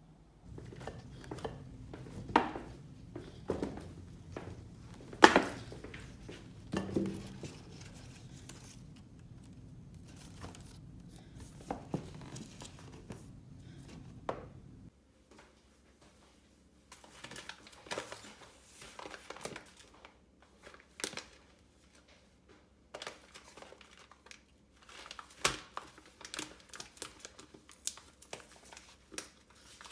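Crinkling, rustling and light clicks and knocks of small objects being handled, over a low steady hum that cuts off about halfway through.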